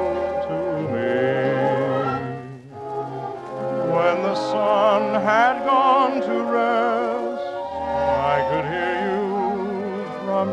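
Orchestral music with a sustained vibrato melody line in the manner of operatic singing, dipping briefly a little over two seconds in before swelling again.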